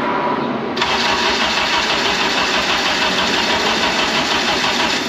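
Honda K-series four-cylinder engine swapped into a 1997 Civic EK, on its first start, running with a fast, even pulse. It comes in suddenly about a second in.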